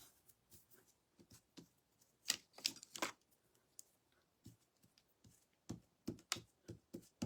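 Scattered light clicks and taps of craft supplies being picked up and set down on a tabletop, in two short clusters.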